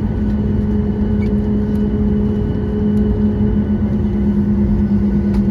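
Steady cabin noise inside a Boeing 737 MAX: a constant low rumble with a steady hum from its CFM LEAP-1B engines running at low power.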